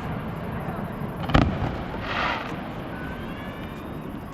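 Fireworks: one sharp bang about a second in, then a short hiss and a faint rising whistle, over a steady low rumble.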